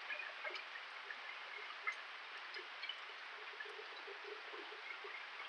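Steady rain falling, a faint even hiss dotted with many small ticks of drops and drips.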